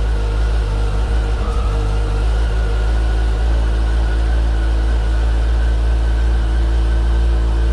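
Motorcycle engine idling steadily, freshly started and left running to warm up.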